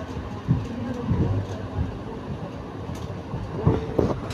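Passenger train coaches rolling slowly along the track: a steady low rumble with irregular knocks from the wheels, and a few sharper knocks near the end.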